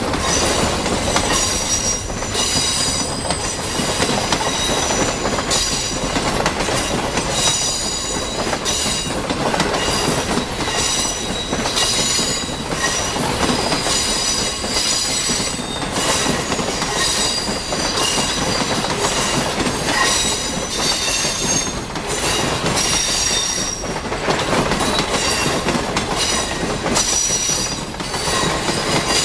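Passenger coaches of a departing train rolling past, their wheels clacking over rail joints, with high-pitched wheel squeal that comes and goes throughout.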